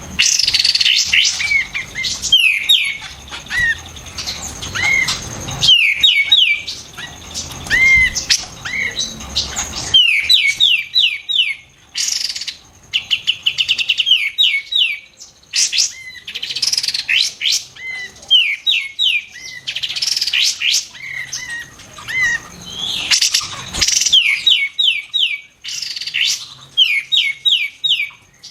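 Kapas tembak bulbul (cucak jenggot) singing loudly: repeated quick phrases of sharp, rapid, falling whistled notes, coming again every second or two.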